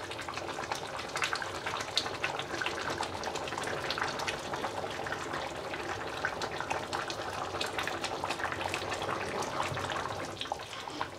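Thick ash reshta noodle soup bubbling at a simmer in a pot, with many small pops, while a ladle stirs and lifts the noodles through the broth.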